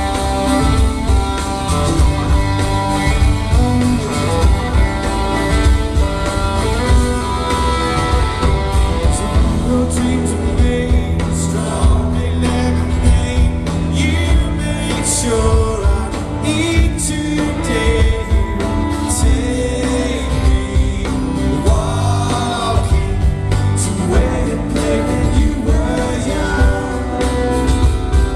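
Live rock band performing a song: strummed guitars, bass and drums with a sung melody over them, loud and continuous.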